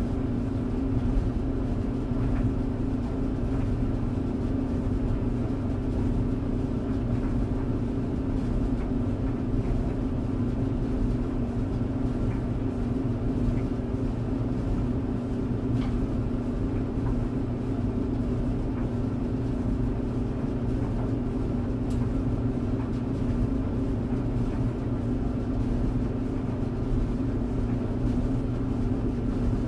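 Clothes tumble dryer running: a steady drum-and-motor hum with a low rumble underneath, unchanging throughout.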